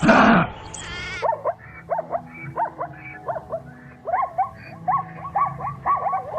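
Animal calls: a loud pitched call at the start, then a long run of short, quick yelping calls, several a second, rising and falling in pitch.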